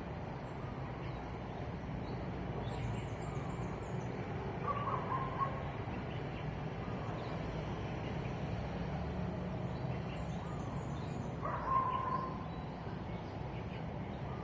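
Birds calling at dawn: two short, clear mid-pitched calls, about five seconds and about twelve seconds in, and fainter high chirps in between, over a steady low rumble.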